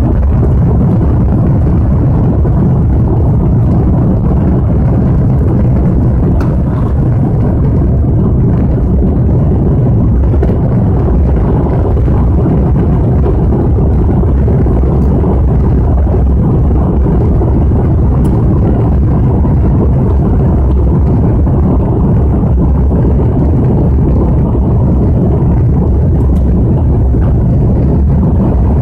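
Steady, loud rumble of a Lockheed TriStar airliner's jet engines and rushing air, heard inside the cabin during take-off.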